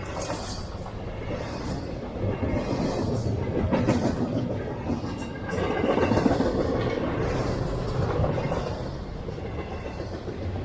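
CSX freight train's cars rolling past on the track, steel wheels clicking over the rails. The rumble swells and eases.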